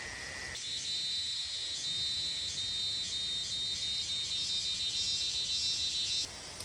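Insects chirring in a steady, high-pitched chorus that starts suddenly about half a second in and cuts off suddenly near the end.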